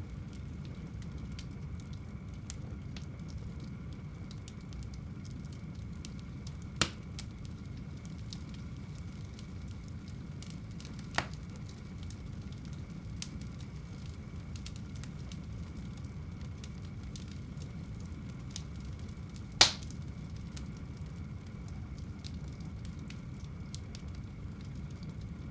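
Fire burning in a home fireplace: a low steady rush of flame with faint crackling and three sharp pops, about a quarter, halfway and three-quarters of the way through, the last the loudest.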